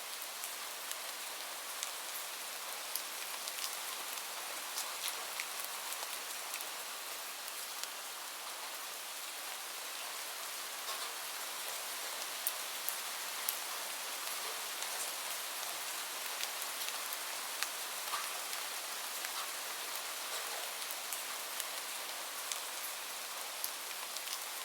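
Steady rain hiss with scattered sharp crackles and pops from a wood fire burning in a fireplace.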